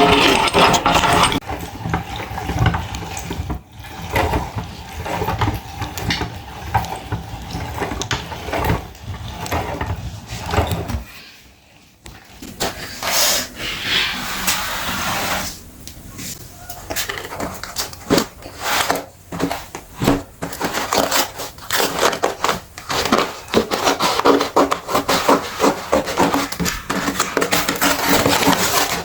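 Meat grinder working soft material through, a dense run of irregular clicks and crackles over a steady noise, with a brief drop in level before the middle.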